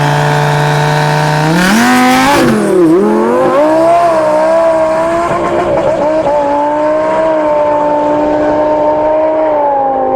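Twin-turbo Lamborghini engine held at steady revs, then revving up sharply about two seconds in with a brief burst of tire squeal as it launches. It then runs at high, nearly steady revs with small dips.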